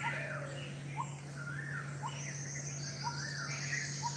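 Birds calling: short rising chirps about once a second, mixed with arched whistled notes, and a thin high steady note for about a second and a half in the middle. A steady low hum runs underneath.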